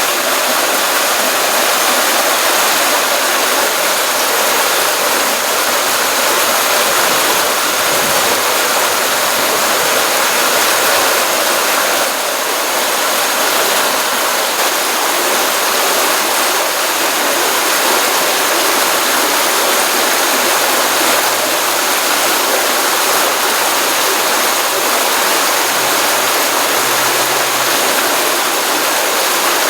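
Stream water running from a pond after a rainstorm: a steady, continuous rushing and splashing.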